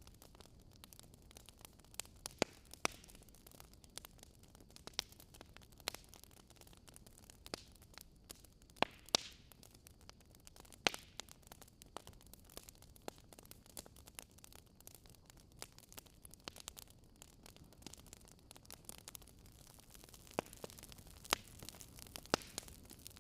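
Wood fire crackling: irregular sharp pops and snaps over a faint low hiss, with a few louder snaps scattered through.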